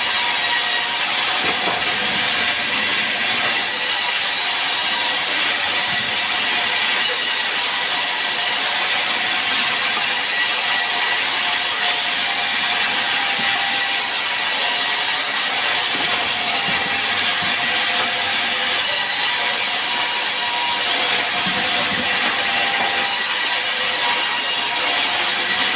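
Sawmill saw running steadily through sengon wood, an unbroken high hiss with a faint whine held throughout.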